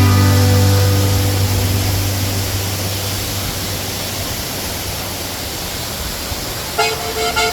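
Steady rushing of a waterfall. A held low note of background music fades out over the first couple of seconds, and the music comes back in near the end.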